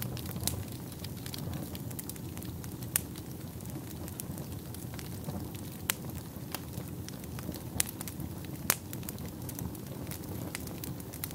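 Wood fire burning in a fireplace: a steady low rumble under frequent small crackles, with a handful of sharper, louder pops standing out.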